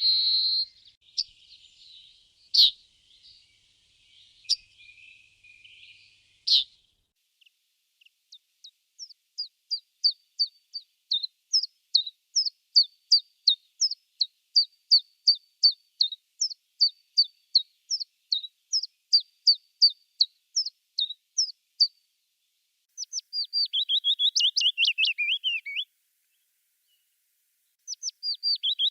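Songbirds singing in a spring forest: a few scattered chirps and sharp calls, then a long run of clear, evenly repeated whistled notes, about three a second, growing louder. Near the end comes a short, quick trill that falls in pitch.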